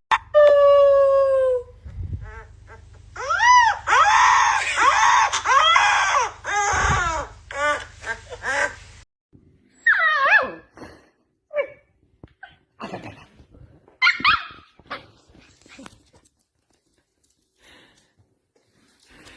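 A dog howling: one long falling note, then a run of rising-and-falling howls. Shorter whines and whimpers follow and die away.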